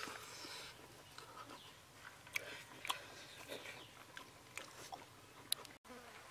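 A person biting and chewing cooked pig intestine off a skewer, with a few sharp clicks of the mouth; the sound drops out for an instant near the end.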